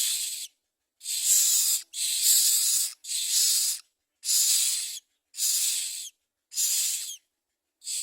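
Common myna nestlings giving harsh, hissing begging calls in repeated raspy bursts, each about half a second to a second long with short silent gaps between them, as they beg for food.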